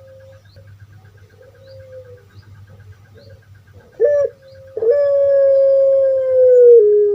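Puter pelung (domesticated ringneck dove) cooing. Soft coos at first, then about four seconds in a short loud note and a long drawn-out note that falls slowly in pitch and drops a step near the end.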